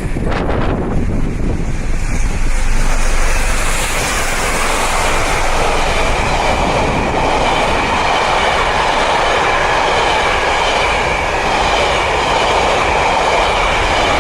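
A steam-hauled train running past with a steady, continuous rolling noise of wheels on rail.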